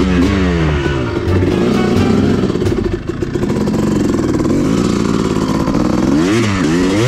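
Dirt bike engine being ridden and revved, its pitch rising and falling again and again, with a quick rev up and back down near the end.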